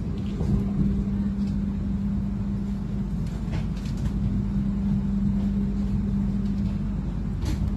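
Passenger train in motion heard from inside the carriage: a steady low rumble with a constant hum, and a few sharp clicks about halfway through and again near the end.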